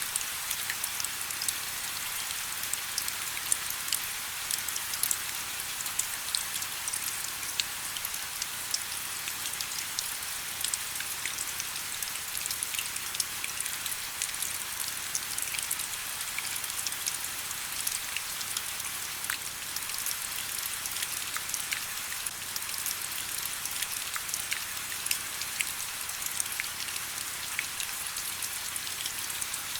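Steady rain with many close, crisp drops pattering on a surface, a continuous high hiss with scattered ticks.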